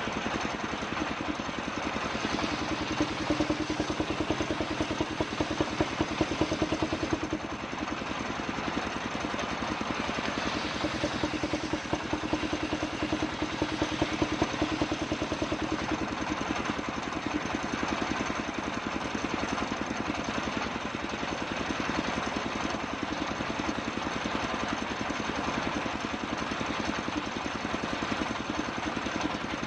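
Engine-driven circular saw running with a steady beat as it cuts kapok wood. It grows louder in two stretches during the first half.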